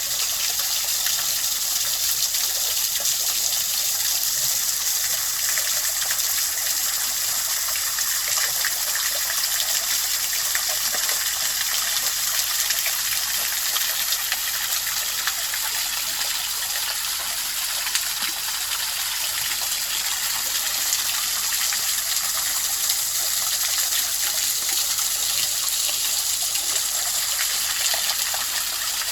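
Valley stream running steadily, a continuous rush of water that is mostly high hiss with little low rumble.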